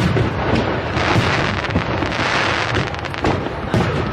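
Aerial fireworks shells bursting close overhead, with a dense run of sharp cracks and crackling that thickens in the middle.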